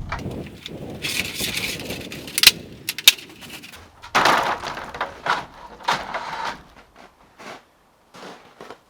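A ladder being handled and set up: scraping and clattering, with two sharp knocks about two and a half and three seconds in, then a few shorter knocks and scrapes that die away near the end.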